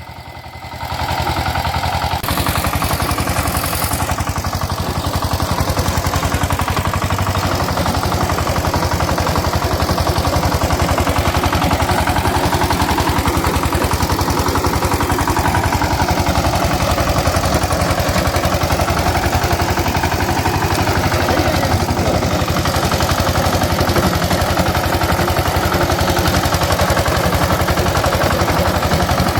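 Maha Shakti power tiller's engine running steadily with a fast, even firing knock; the sound swells up about a second in.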